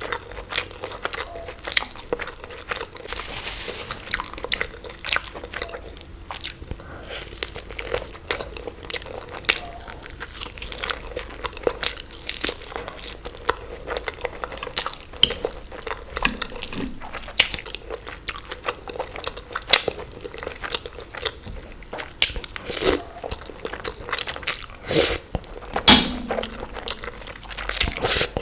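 Close-miked eating: wet chewing, biting and crunching, with many irregular sticky mouth clicks and short smacks.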